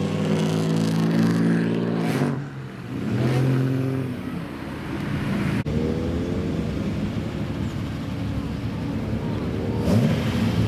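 Old car engine revving hard: held high revs that drop away about two seconds in, then a short blip of the throttle. It then settles into a rough, lumpy idle, with another quick rev near the end.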